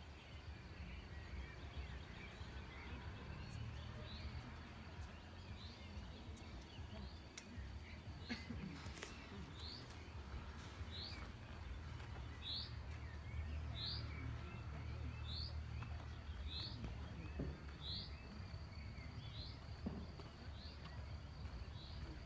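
A bird repeating a short, high, falling call about once every second and a half, over a steady low rumble of outdoor background noise.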